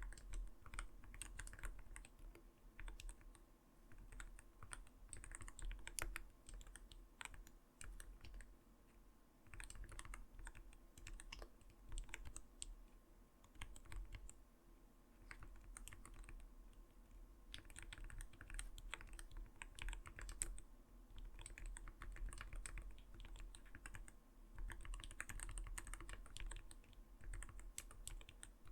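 Typing on an Arbiter Studio Polar 65 mechanical keyboard: quick runs of soft, deep keystrokes, the light "kotokoto" sound it is known for, with short pauses between bursts.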